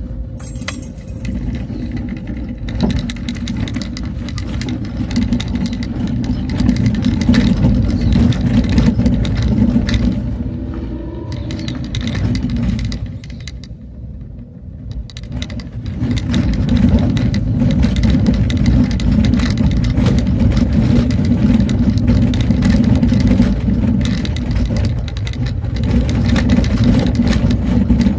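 A motor vehicle travelling along a road, with a continuous low rumble and many small rattles and knocks. It eases off briefly about halfway through, then picks up again.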